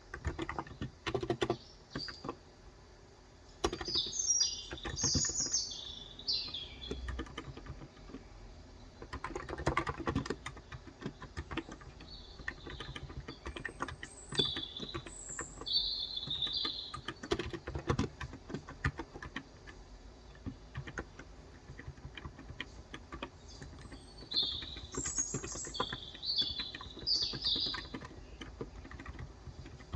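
Typing on a Cox Endeavor tenkeyless keyboard with electro-capacitive (Topre-style) 35 g switches, a run of soft key clicks. Birds chirp in three bursts over it.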